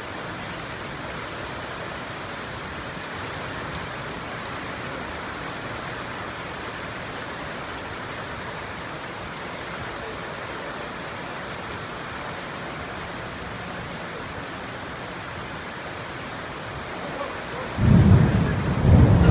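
Steady heavy rain falling, then a loud clap of thunder rumbling in near the end.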